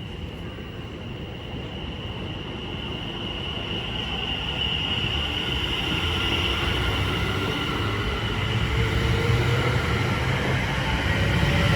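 Class 720 electric multiple unit train running through the station, growing steadily louder, with a steady high whine over the rumble of wheels on the track.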